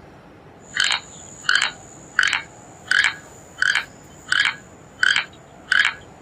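An animal calling in a steady rhythm: eight short calls, one about every 0.7 seconds, over a thin, steady high tone.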